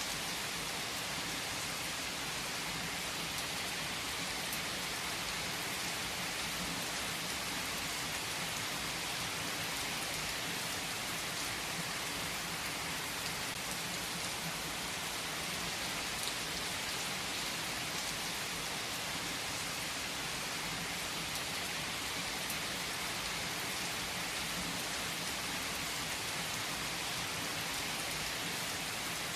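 Steady rain falling on surfaces, an even hiss with scattered drop patter.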